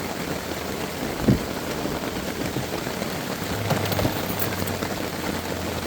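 Steady rain falling, with a single short knock about a second in.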